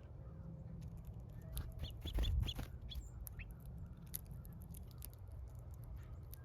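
Small birds at a feeder: a quick run of short high chirps about two seconds in, among scattered small clicks, over a steady low rumble.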